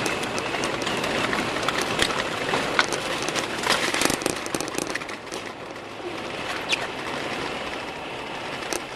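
Cabin noise of a Jeep driving through snow: a steady rushing rumble of tyres and engine, with many scattered short clicks and ticks.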